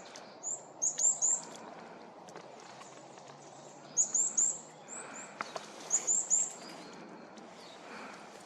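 A small songbird giving very high, short call notes in quick runs of three or four, repeated four times, over a steady background hiss.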